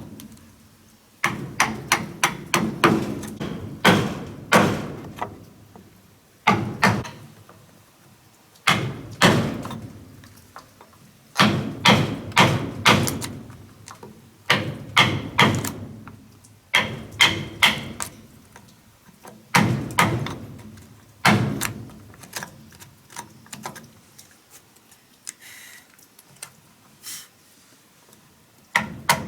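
Blows of a tool on wood, in bursts of several quick strikes with short pauses between them.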